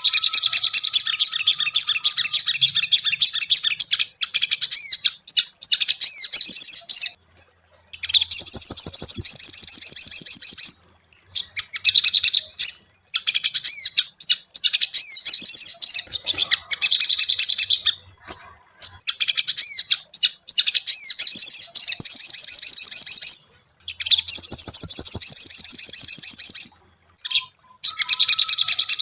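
Ruby-cheeked sunbird (sogon) singing in long runs of rapid, high chirps and trills, broken by short pauses every few seconds.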